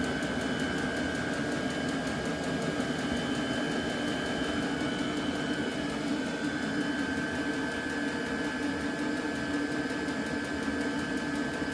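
Chinese diesel air heater running steadily, its blower fan and burner making a constant whir with a low hum and a thin high whine; it sounds like a jet.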